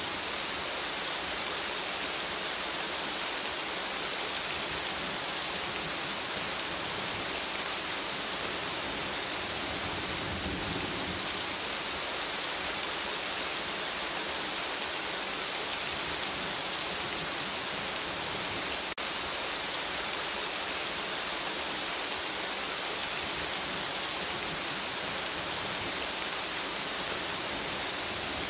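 Steady rain falling in a forest: an even, unbroken hiss of drops. A single brief click about two-thirds of the way through.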